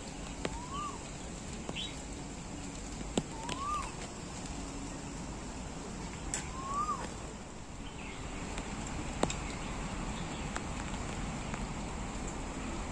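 A bird repeating a short whistled call that rises then falls, about once every three seconds, over steady outdoor background noise, with a couple of sharp clicks.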